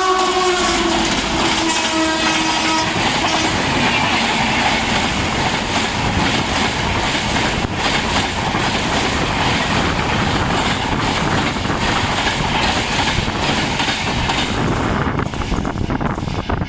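A train horn sounds at the start, slides slightly lower and fades within the first few seconds as a train passes at high speed. Then comes the steady rush and rhythmic wheel clatter of the passing train, easing near the end.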